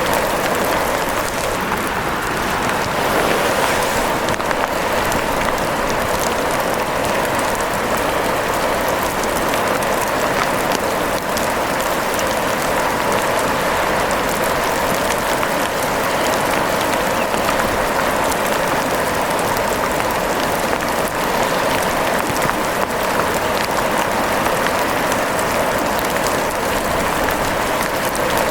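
Steady rain falling, a dense, even patter of drops that holds without letting up.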